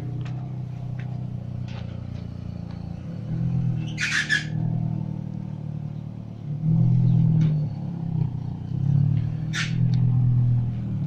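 Engine of a car cut in half, its front half being driven slowly, running with a steady low hum that grows louder about six and a half seconds in. Two short sharp noises about five seconds apart.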